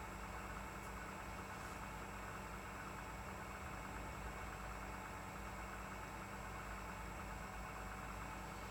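A steady mechanical hum with several held tones and a faint high-pitched whine, unchanging in level.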